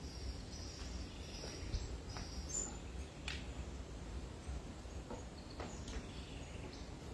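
Outdoor tropical ambience: a high, pulsing insect buzz that fades out about two and a half seconds in, a few short chirps or clicks scattered through, over a steady low rumble of wind on the microphone.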